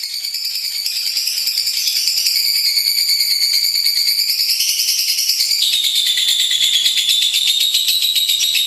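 Lovebird singing one long, unbroken high-pitched chattering trill of very rapid notes. It swells in over the first couple of seconds, and its pitch drops a little about six seconds in.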